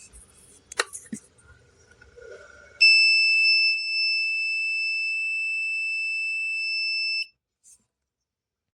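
Electronic buzzer of a home-made rain detector alarm sounding one steady, high-pitched tone that starts suddenly about three seconds in and cuts off sharply after about four and a half seconds, set off by water on the sensor. Before it, a few faint clicks and a sharp tap.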